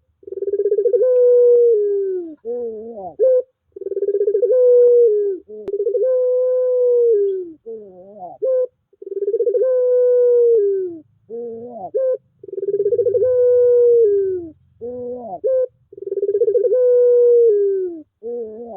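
Puter pelung (domesticated collared dove) cooing: a series of long, drawn-out coos, each a second or two, holding a steady pitch and then dropping at the end, with short gaps between them. It is a lure call meant to set a dove that has gone silent cooing again.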